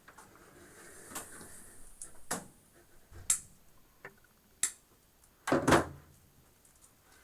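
Side cutters snipping plastic zip ties off cables: a series of sharp clicks about a second apart, with a louder double snip near the end.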